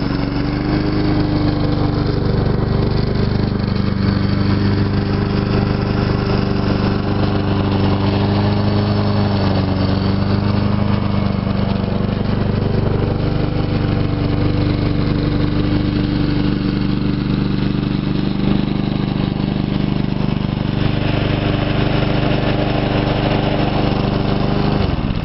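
Honda GCV160 single-cylinder four-stroke engine on a self-propelled walk-behind lawn mower running steadily just after starting, its pitch wavering slightly. It cuts off at the very end.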